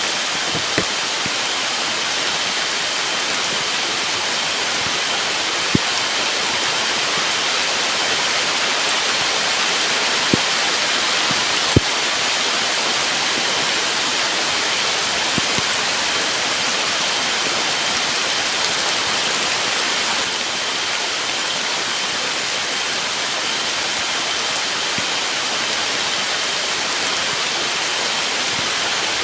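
Heavy rain falling steadily, with a few sharp single drip taps now and then, the loudest a little under halfway through.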